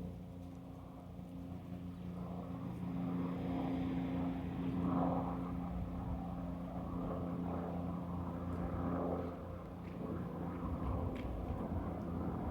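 Bell 429 GlobalRanger twin-engine helicopter passing overhead: a steady engine and rotor hum that swells to its loudest about four seconds in, then eases off.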